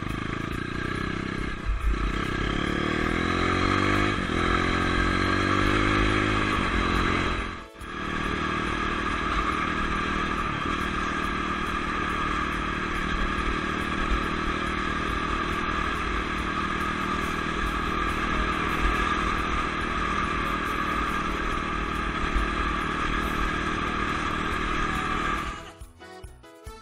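Dirt bike engine heard from the rider's helmet camera, revving up with rising pitch over the first several seconds. After a sudden break it runs at a steady speed, then cuts off near the end, where quiet music takes over.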